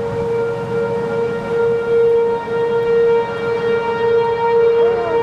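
Outdoor tornado warning siren sounding one steady wailing tone that swells and fades in loudness as the siren head rotates.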